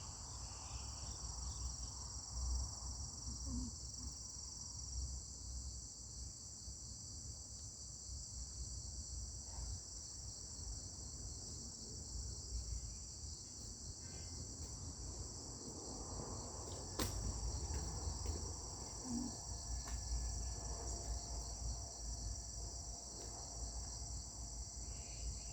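Steady chorus of crickets chirring in a forest, a high even drone that does not break, over a low rumble. One sharp click about seventeen seconds in.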